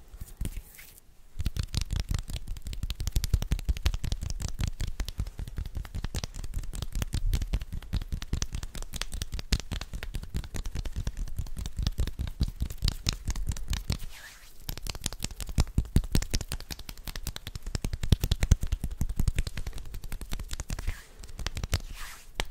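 ASMR hand sounds close to the microphone: a fast, dense run of crackling taps and rubs with a low rumble, pausing briefly about two-thirds of the way through and then going on.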